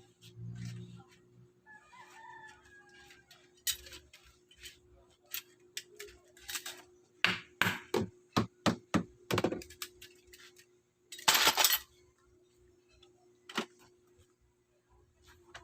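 Hand-tool work on a bed frame: irregular knocks and thunks, with a quick run of blows about halfway through and a harsher, noisier burst lasting about a second a little later.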